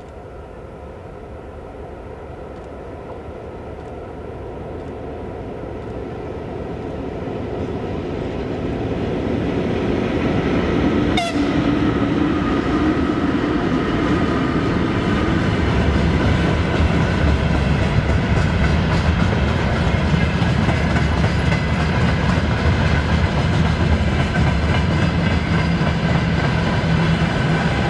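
Freight train approaching and passing close by. It grows steadily louder for about ten seconds, then holds at a steady rumble with wheel clatter as the wagons roll past. A single sharp crack about eleven seconds in.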